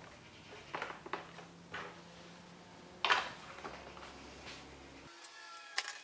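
A few separate light clicks and knocks of plastic parts being handled and fitted on an all-in-one PC's housing during reassembly, the loudest about three seconds in. A low background hum cuts out abruptly near the end.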